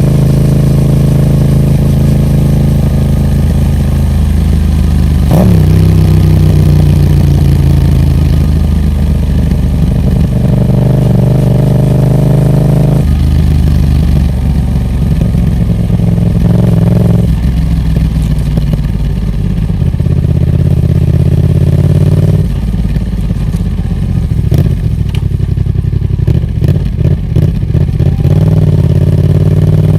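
Yamaha MT-07's parallel-twin engine through a Roadsitalia Special Carbon aftermarket exhaust while riding. The engine note holds steady and then changes step by step through several shifts. A run of sharp crackles comes near the end, and the note rises again at the close.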